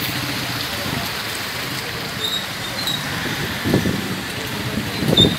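Heavy rain falling on an umbrella and the wet street, a steady hiss, with road traffic in the background and two louder bumps near the end.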